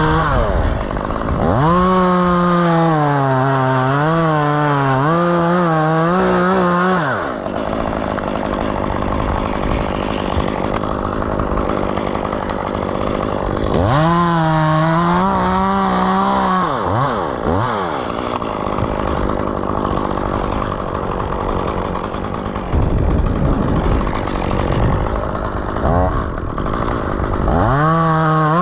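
Chainsaw revved up and cutting wood three times, its engine pitch sagging and recovering under load. Between cuts it drops back to a rougher, lower-speed running.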